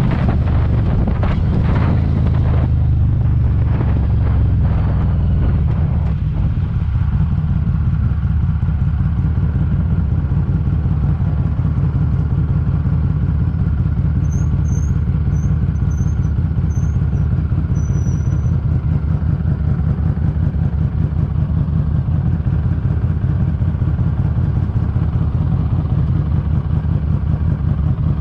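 Harley-Davidson Street 500's V-twin running through a TAB Performance exhaust. It slows with the wind dying down over the first few seconds, then settles into a steady, evenly pulsing low-rev idle. A few faint high chirps come near the middle.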